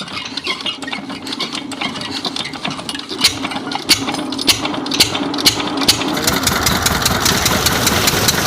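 8 hp diesel water-pump engine running with a steady knocking beat that quickens and becomes more even about two-thirds of the way in, as the engine picks up speed.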